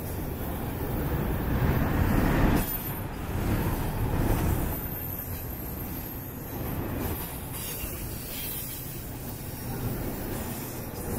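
Double-stack intermodal well cars rolling past: the steady rumbling noise of steel wheels on the rails, swelling louder about two seconds in and again a couple of seconds later before easing.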